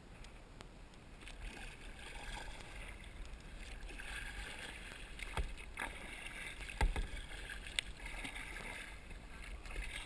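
Water splashing and dripping around a kayak paddling on a river, with four sharp knocks in the middle, like a paddle striking the boat.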